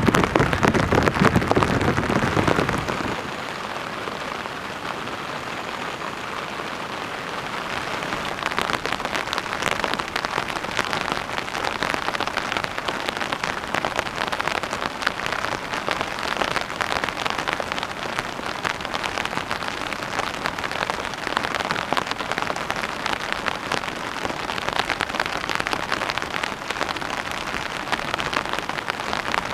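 Heavy rain falling steadily, a dense patter of drops. It is louder and deeper for the first three seconds, then settles to an even hiss.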